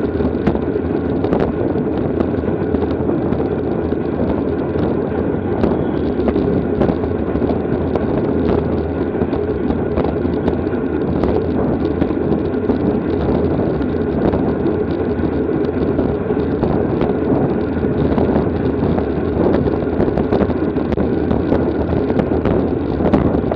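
Steady wind rush on the microphone of a camera moving with a road bicycle at race speed, with scattered small clicks and ticks.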